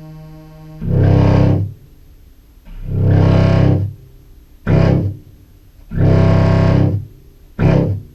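Contrabass clarinet played through fuzz pedals with a Meris Enzo synth in parallel: five separate low, distorted notes, some long and some short, attacked again and again. The low notes are hard for the synth to pick up and only eventually come through.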